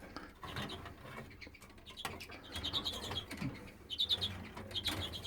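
Caged canaries chirping in short, quick high trills, several times, over faint clicks and rustling in the cages.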